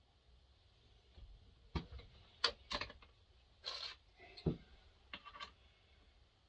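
A few short clicks and knocks of hard parts being handled, with a brief scraping rattle in the middle, as a full wrap handle is test-fitted to a chainsaw.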